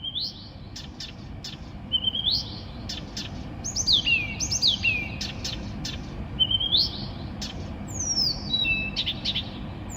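A songbird singing at night in short, varied phrases of rising whistles and falling slurred notes, roughly one phrase a second, mixed with sharp clicking notes.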